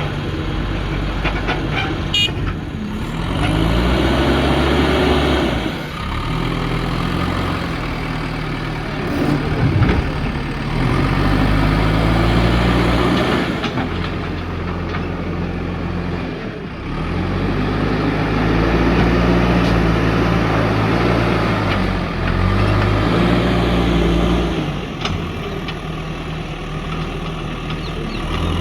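JCB backhoe loader's diesel engine working under load, revving up and dropping back about five times as it works its hydraulics digging and loading soil.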